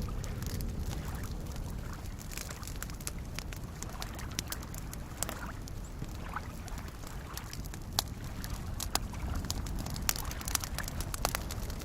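Campfire crackling, with scattered sharp pops and several louder ones in the second half, over the steady low wash of soft lake waves lapping.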